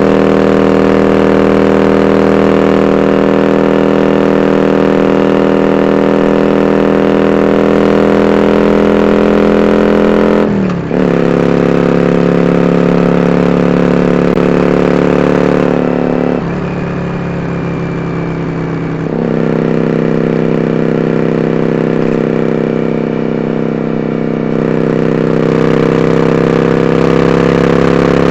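Yamaha Drag Star 400 Classic's V-twin engine running through 4-inch dual open-end Supertrap mufflers while riding at steady throttle. There is a quick gear change about ten seconds in. The throttle eases off for a few seconds after about sixteen seconds, then comes back on with slowly rising revs.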